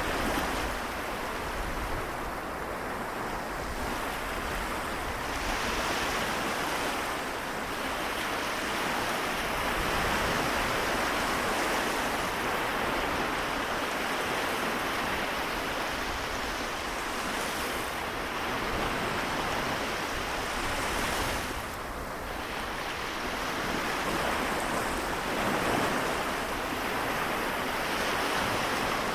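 Waves washing onto the shore of the Seto Inland Sea, a steady surf that swells and eases every few seconds, with some wind on the microphone.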